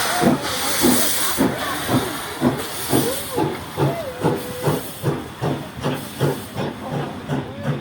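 Steam train pulling away: a hiss of steam with a rhythm of beats that quickens from about two to three a second as the train gathers speed. A wavering squeal, likely wheels on the rails, is heard around the middle.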